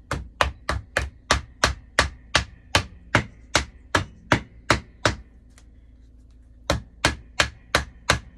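A rapid, even run of sharp knocks, about three a second, that breaks off for about a second and a half past the middle and then starts again at the same pace.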